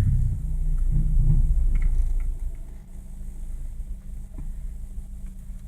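1991 Toyota Corolla's 1.6-litre four-cylinder engine running, heard from inside the car: a low rumble, louder for the first two seconds, then settling to a quieter steady hum with a few light clicks.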